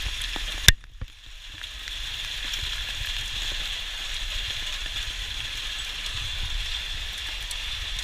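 Hail coming down hard, a dense steady patter of many small hits. There is one sharp click just under a second in, and the patter is briefly quieter just after it.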